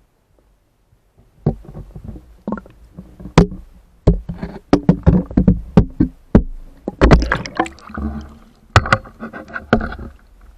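Irregular knocks and bumps picked up through an underwater camera housing, starting about a second and a half in and coming thick and fast to the end.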